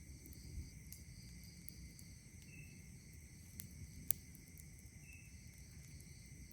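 Night insects chirring steadily over a low rumble, with a few sharp crackles and pops from a wood campfire, the loudest a little after four seconds in.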